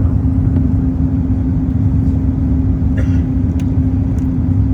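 Steady low engine rumble with a constant droning hum, unchanging in level or pitch.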